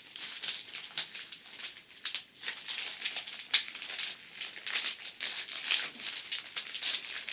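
Plastic packaging of a bead-art kit rustling and crinkling as its contents are taken out, with an irregular shaking rattle.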